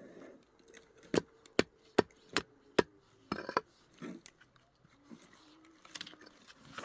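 Five sharp knocks in an even rhythm, about two and a half a second, then a short quicker run of knocks.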